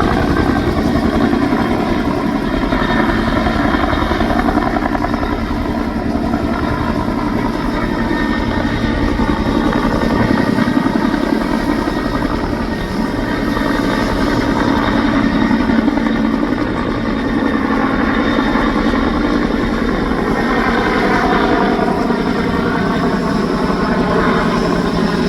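A Bell 212 helicopter running steadily on the ground: the whine of its twin turboshaft engines over the beat of its two-blade main rotor.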